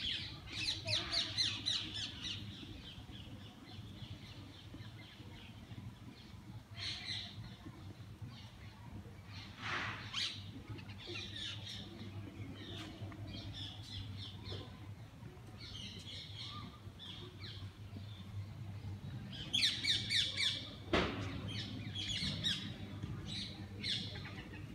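Birds calling in bursts of quick, repeated high notes, loudest near the start and again about twenty seconds in, over a steady low hum.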